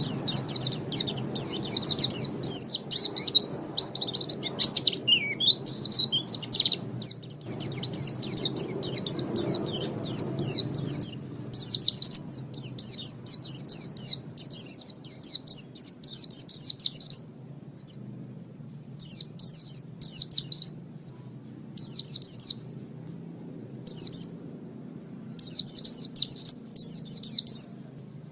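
White-eye (pleci) singing a fast, high twittering song of rapid chirps. It runs unbroken for the first half, then breaks into short bursts with pauses between them, over a low background rumble that fades about halfway through.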